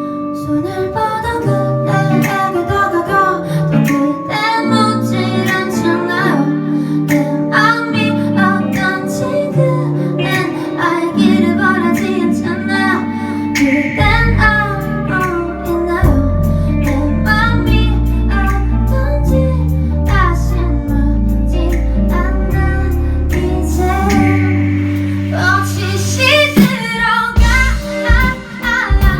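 A woman singing a song over guitar accompaniment; a deep bass line comes in about halfway through.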